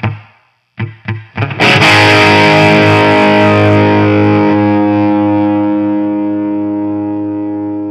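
Distorted electric guitar through a DIY JCM800-style 50 W tube amp (Mojotone British 800 kit) driven by a Boss SD-1 overdrive: a few short, choked chugs, then a full chord struck about a second and a half in and left to ring out loud, slowly fading.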